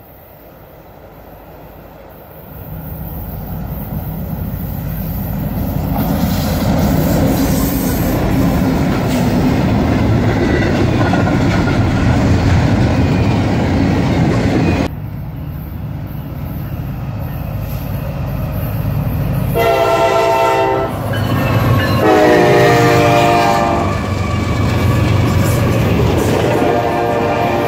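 Double-stack intermodal freight train rumbling past, getting louder over the first few seconds as it approaches. After a cut, the steady rumble and clatter of the passing cars, with a diesel locomotive horn sounding twice, then once more more faintly near the end.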